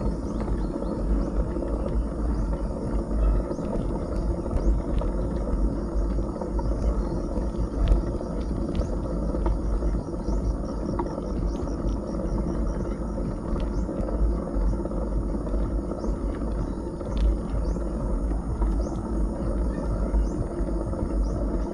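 Wind buffeting an action camera's microphone during a bicycle ride, a steady low rumble mixed with tyre noise on the road, and scattered light ticks.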